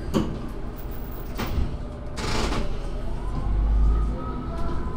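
Diesel railcar running on the line, with a sharp click at the start and another knock about a second and a half in. A short hiss comes about two seconds in, then a low rumble and a whine that rises in pitch through the second half.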